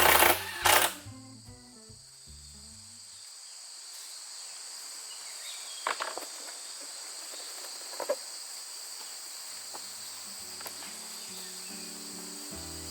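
Steady high-pitched insect chirring, with a few faint clicks in the middle. Two sharp knocks come right at the start, and background music plays at the start and again near the end.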